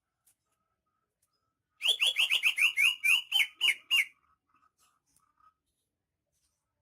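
Greater green leafbird (cucak ijo) singing: a rapid run of about eleven loud, sharp notes, each falling in pitch, about five a second for two seconds, then a few faint soft notes.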